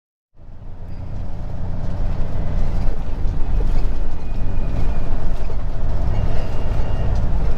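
Semi-truck engine and road noise while driving, a loud low drone that starts abruptly and grows louder over the first couple of seconds, then holds steady.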